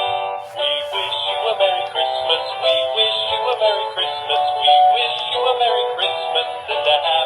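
Hallmark Sing-Along Showman Snowman plush toy playing its song with singing through its small built-in speaker, thin and without bass.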